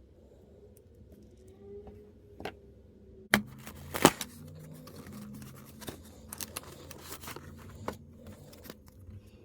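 Small plastic miniature pieces and their packaging being handled: two sharp clicks a little after three and four seconds in, then a run of lighter taps and clicks.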